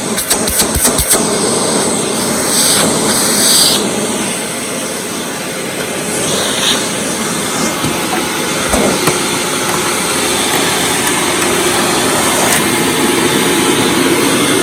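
Hoover WindTunnel Supreme upright vacuum running steadily while its hose is used. There are a few sharp clicks in the first second and short, hissy surges of suction about 3 and 6 seconds in.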